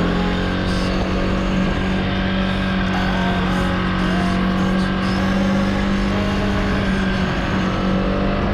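Husqvarna 701 Supermoto's single-cylinder engine pulling at steady revs while riding, over wind and road noise; the revs drop as the throttle comes off at the very end.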